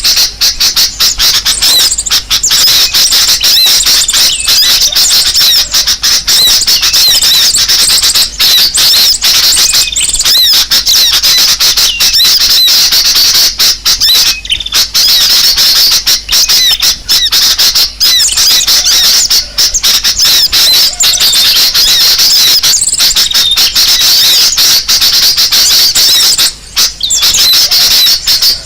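Loud, unbroken chattering and squawking of many small birds together, a dense high-pitched tangle of chirps and trills with only brief gaps. It is a bird-lure (pikat) recording of agitated, noisy birds, played to draw other birds in.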